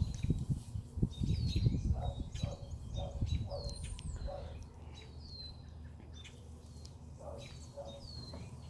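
A bird chirping over and over: short high chirps that fall in pitch, about one a second, with shorter lower calls in between. Low rustling thumps fill the first few seconds, then die away.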